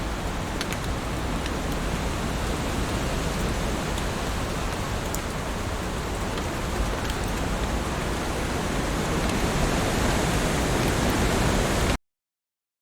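Steady heavy rain, a dense hiss with scattered sharp drop taps. It cuts off suddenly near the end.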